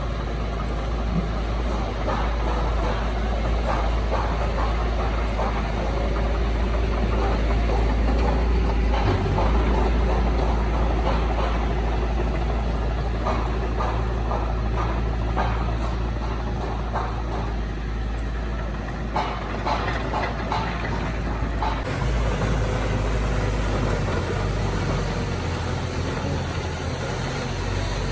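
Heavy diesel earthmoving machinery running steadily with a deep low rumble, with a run of short clanks and knocks in the middle, and the engine sound changing near the end.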